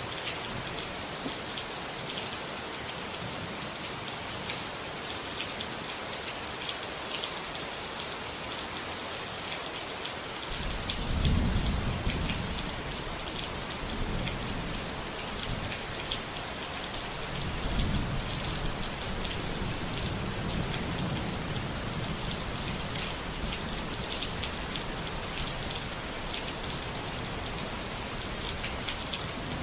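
Steady rain falling, with thunder rumbling low, loudest about a third of the way in and again a few seconds later.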